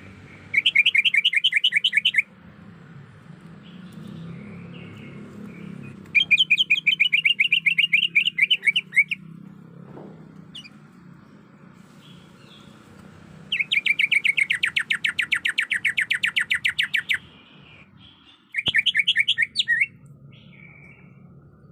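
Cucak ijo (green leafbird) calling in four bursts of fast repeated chattering notes, the longest about three and a half seconds. The recording is offered as a female calling to stir a male into song.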